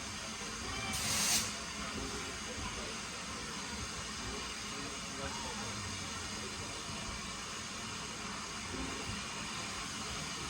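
A short, loud hiss from the steam train, building for about half a second and cutting off about one and a half seconds in. It sits over a steady background rumble with faint voices.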